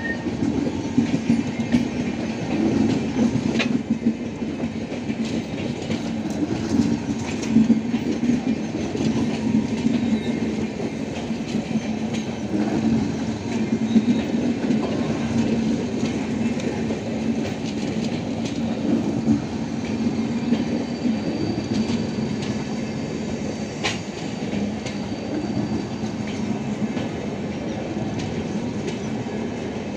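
Passenger coaches of an Indian Railways express train rolling past close by: a steady rumble of steel wheels on the rails, with a running clickety-clack and scattered knocks from the wheels and bogies.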